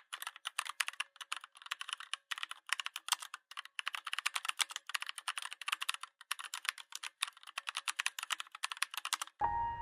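Rapid keyboard typing: dense runs of key clicks broken by short pauses, stopping just before the end, where piano music begins.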